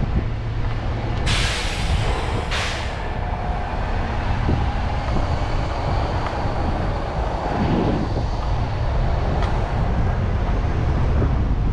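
Wind buffeting the microphone of a moving bicycle rider, with steady rumbling road and traffic noise. Two short sharp hisses come about a second and a half into the ride and again a second later.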